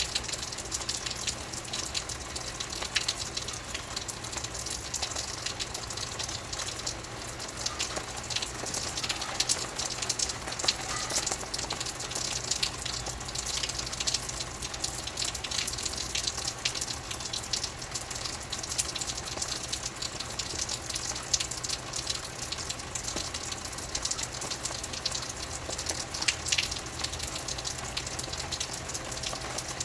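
Steady rain falling: a dense, even hiss dotted with many sharp individual drop splashes.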